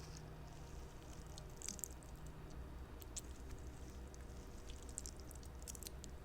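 Squishy spider fidget toy being squeezed and handled, giving faint, irregular squishing and crackling sounds.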